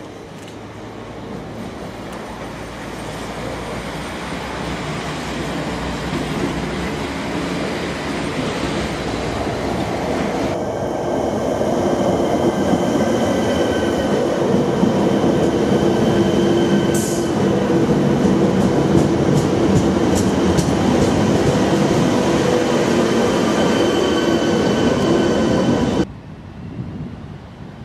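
Regional multiple-unit passenger train running along the platform, getting steadily louder, with steady high squealing tones over the rumble and a quick run of clicks from the wheels near the middle. The sound cuts off suddenly near the end.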